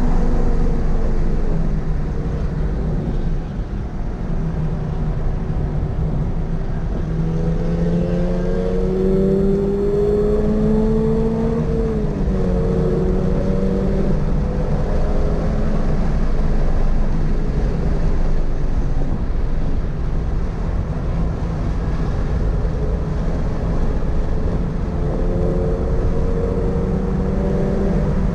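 Toyota GR86's 2.4-litre flat-four engine pulling hard on track: the revs fall away at the start, climb steadily for several seconds, drop sharply about twelve seconds in, hold, and climb again near the end, over constant road and wind rumble.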